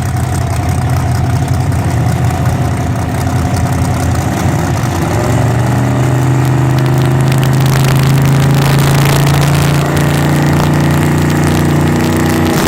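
Drag car's V8 engine idling roughly and unevenly. From about five seconds in it settles into a steadier, slightly higher held tone.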